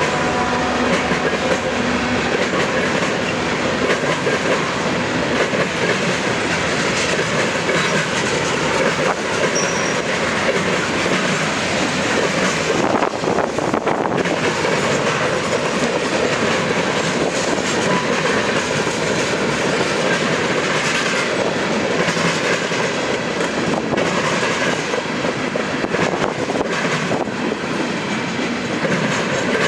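Freight cars of a CSX manifest train rolling past at steady speed, with continuous wheel-on-rail noise and rattle.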